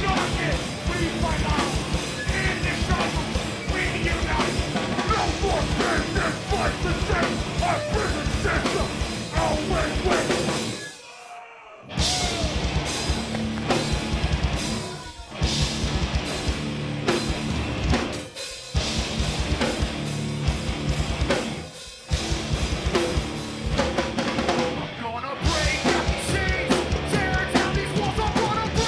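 A live hardcore punk band playing loud, distorted guitars and bass over a heavy pounding drum kit. Near the middle the whole band stops dead for about a second, then crashes back in, and drops out briefly several more times in stop-start hits.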